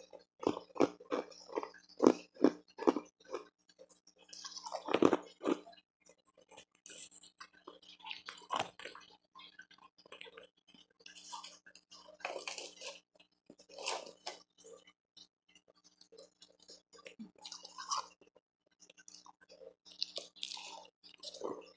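Close-up crunching and chewing of hard refrozen ice: a quick run of sharp bites in the first few seconds, then slower, irregular crunches.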